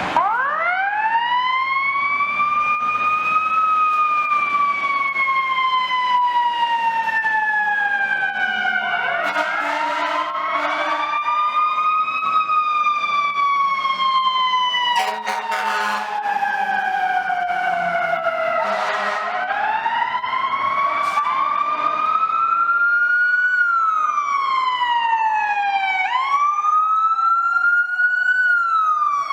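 Fire apparatus sirens wailing as several trucks pass, two or more wails overlapping and rising and falling in pitch. A short horn blast sounds about halfway through. Near the end the wail speeds up into quicker sweeps.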